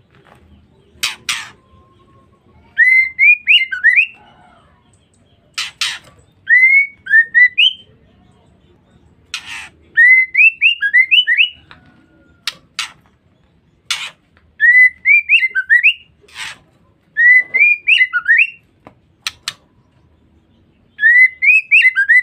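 Female white-rumped shama calling, as a lure track for male shamas: short phrases of four or five quick rising whistles, repeated every three to four seconds. Single sharp clicks fall between the phrases.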